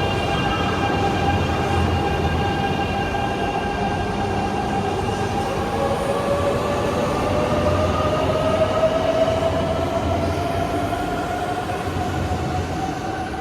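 JR East E926 East-i inspection train's Hitachi GTO inverter and traction motors whining as it pulls away. Several steady tones sound at first, then tones rise slowly in pitch from about six seconds in as the train gathers speed, over a steady rumble that eases off near the end.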